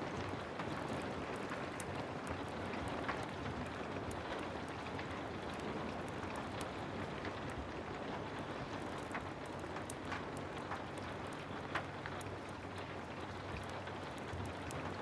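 Heavy rain falling steadily, with scattered sharp ticks and crackles.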